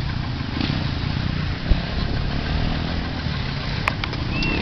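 Car engines running steadily as a convoy of Renault 4s and a 4x4 drives along a dirt track, with a single thump about two seconds in.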